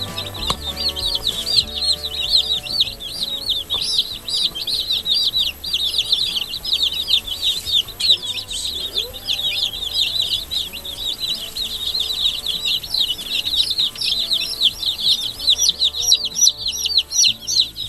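A brooder full of day-old Rainbow Ranger meat chicks peeping, many fast, high cheeps overlapping without a break.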